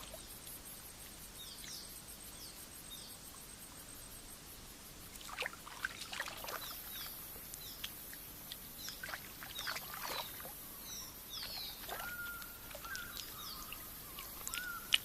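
Tidal shoreline ambience: small birds giving short, high chirps, and several light water splashes in shallow pools, typical of fish being snatched from the water. A high insect hum starts about six seconds in.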